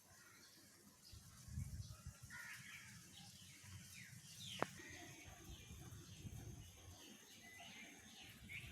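Faint outdoor ambience of birds calling: scattered short calls, with one sharp downward-sweeping call about halfway through, over a low rumble. A thin, steady high-pitched whine comes in about halfway.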